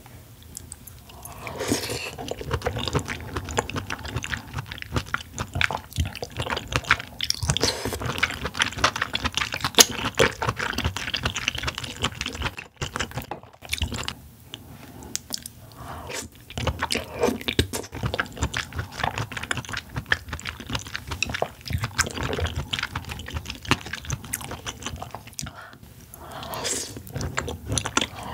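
Close-miked chewing of steamed oysters in a cream sauce: wet, soft mouth sounds with frequent small clicks and smacks, pausing briefly now and then.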